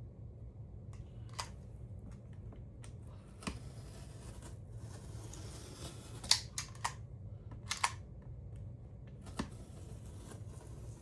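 Craft blade cutting through foam board: faint scratchy cutting with scattered sharp clicks and taps, a cluster of louder clicks just past the middle.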